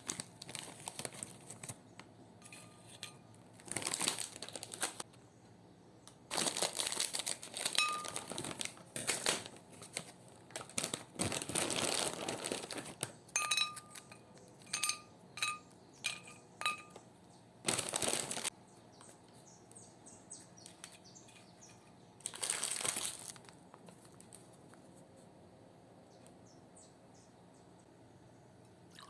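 Close handling noises: irregular bursts of rustling and crinkling, with a few short light clinks in the middle.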